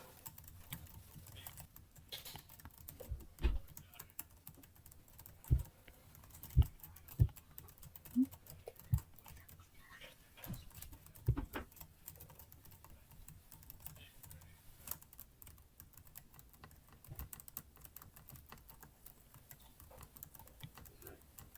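Computer keyboard keys clicking at an irregular, unhurried pace, with several louder, deeper key strikes in the first half.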